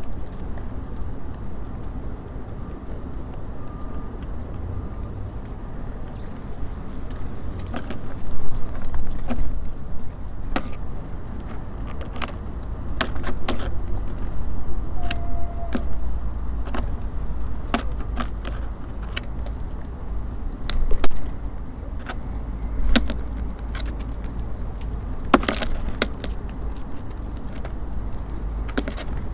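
Steady low rumble of city traffic that swells twice as vehicles pass. Sharp taps and clicks are scattered through it, from small birds pecking and landing at a bird feeder.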